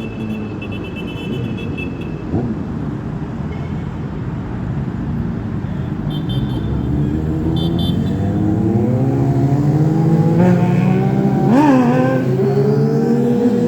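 Street cats in a standoff, growling and yowling at each other: low drawn-out calls that rise and grow louder in the second half, with a sharp wavering peak a little before the end.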